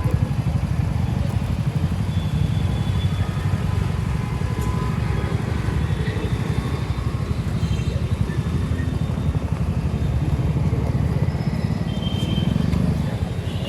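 Steady wind rumble buffeting the microphone of a rider on a moving electric scooter, with the sound of road traffic around and a few faint higher tones near the end.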